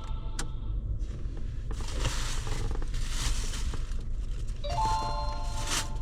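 Steady road and engine rumble inside the cabin of a moving Honda ZR-V, with a short electronic chime from an in-car device about five seconds in.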